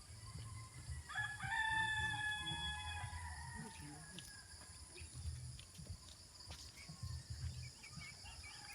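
A rooster crowing once, a drawn-out call of about two seconds starting about a second in, over a steady high-pitched drone.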